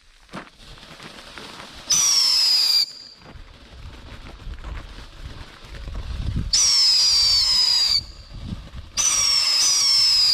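Whistling fireworks going off three times, each a loud, shrill whistle about a second long that slides slightly down in pitch, with a low rumble between the whistles.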